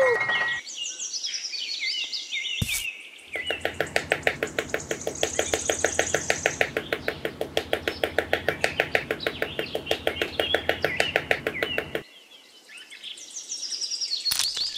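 Small hammer tapping miniature wooden posts into sand: a fast, even run of sharp taps that starts about three seconds in and stops about twelve seconds in. Birds chirp throughout.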